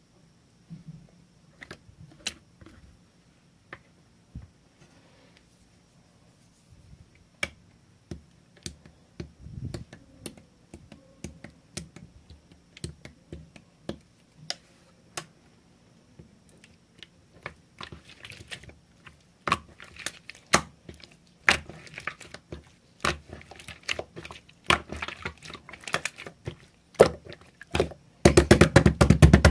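Slime being squeezed and worked by hand, giving scattered sticky clicks and pops. They come more often and louder as it goes on, ending in a dense burst of crackling in the last second or so.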